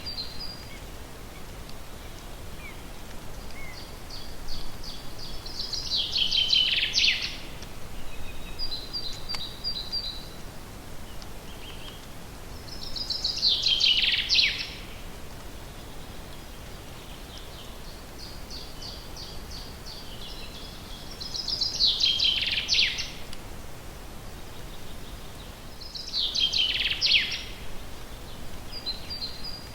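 A songbird singing the same short song four times, each a run of rapid high notes ending in a loud falling flourish, with softer short note series between songs over a steady faint background hiss.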